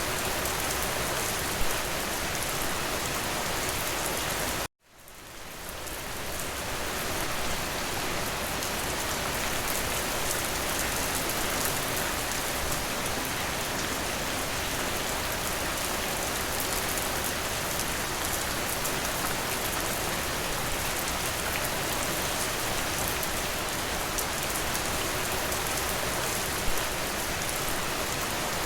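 Steady rain falling on a window, an even hiss with a couple of sharper single drop taps. About five seconds in the sound cuts out abruptly and fades back up over a second or so.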